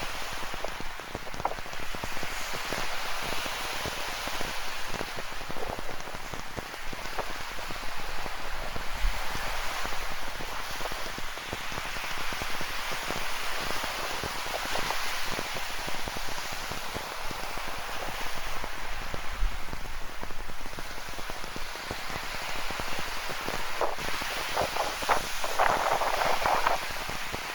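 Steady rain falling, with many close drops pattering and ticking, over the wash of ocean surf; a denser burst of crackling patter near the end.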